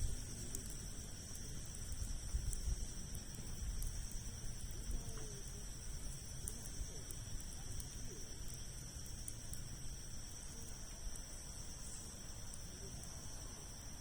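Campfire of large logs crackling with scattered small pops, over a steady high-pitched drone of insects and a low rumble.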